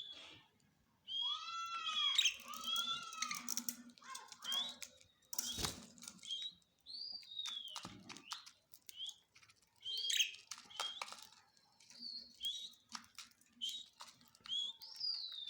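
A parrot chirping and whistling in short, gliding calls, with a quick run of repeated arched chirps a second or two in and a sharp click about five and a half seconds in.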